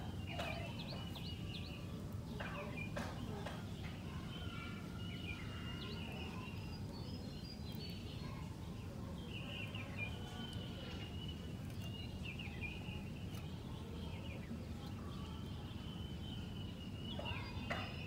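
Red-whiskered bulbul singing short, repeated warbled phrases, over a steady low hum.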